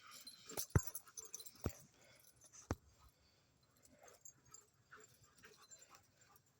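Faint sounds of two dogs play-fighting, with three sharp knocks in the first three seconds.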